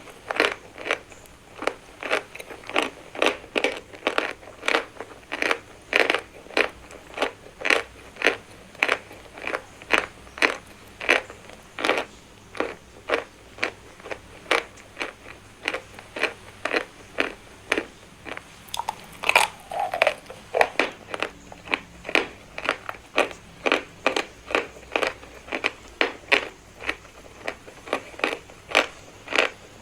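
Chalk being bitten and chewed, crisp crunches at an even rhythm of about two a second. There is one brief, louder sound that falls in pitch about two-thirds of the way through.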